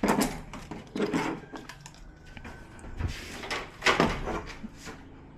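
Clunks and scrapes of TV parts and cable connectors being handled during disassembly of the set, a handful of separate knocks, the loudest about four seconds in.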